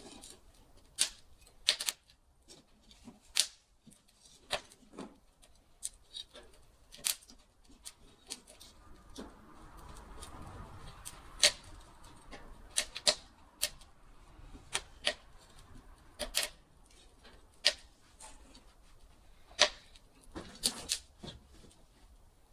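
Wood fire crackling, with sharp irregular pops and snaps at uneven intervals and a soft hiss that swells midway.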